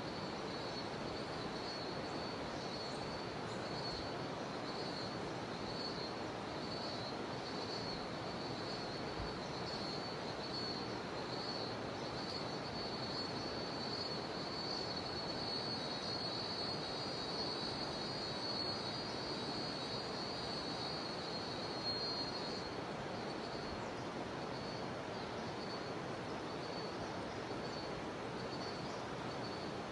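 Steady rush of a jungle river with a continuous high-pitched drone of cicadas over it. The insect drone swells about halfway through, then drops back a little over two-thirds of the way in.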